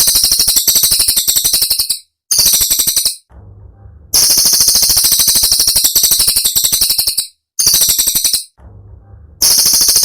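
Cililin bird song: sharp, high, rapid rattling bursts of many notes a second, in phrases of one to three seconds separated by brief silent gaps. The same phrase pattern repeats about every four seconds, as a looped training recording.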